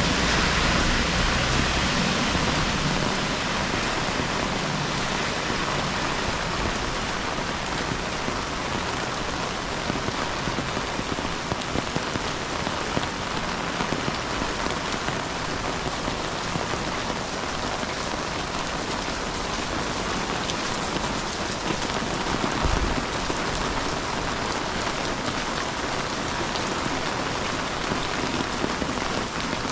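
Steady rain: an even hiss of falling rain, with many sharp raindrop ticks close to the GoPro's microphone.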